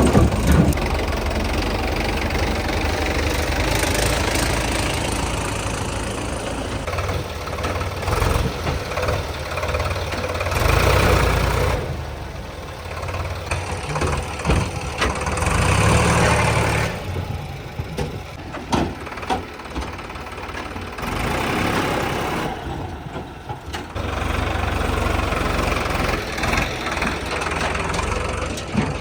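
Tractor diesel engines running, their sound swelling and dropping in level every few seconds, with voices at times.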